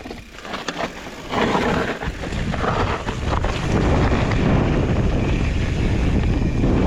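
Wind rushing over the microphone of a riding fat-bike rider's camera, with low rumble from the ride. It gets loud about a second in and louder still from about four seconds.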